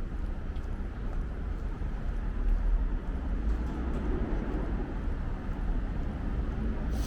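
City street ambience: a steady low rumble of traffic with a few faint clicks.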